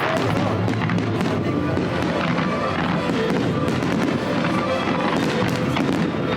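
Aerial fireworks bursting and crackling, many sharp reports overlapping in quick succession.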